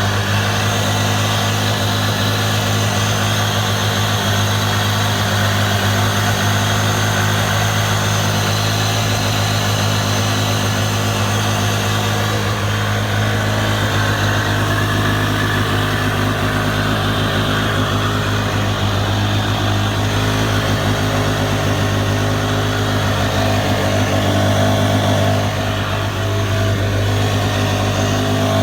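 Yamaha 701 two-stroke twin watercraft engine running steadily at one constant speed.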